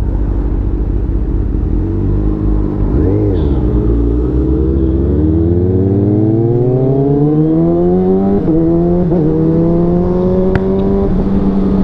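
Motorcycle engine pulling away from a low idle and accelerating, its pitch rising smoothly. It dips briefly at a gear change a little past halfway, then holds a steady, slowly rising pitch.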